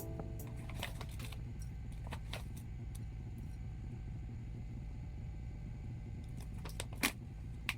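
A low steady rumble with a few sharp clicks and taps scattered through it, the loudest about seven seconds in.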